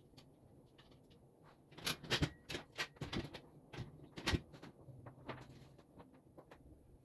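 Irregular knocks and clicks of parts and tools being handled while a flat-pack work table is assembled. The loudest knocks come in a cluster from about two to four and a half seconds in, with fainter taps before and after.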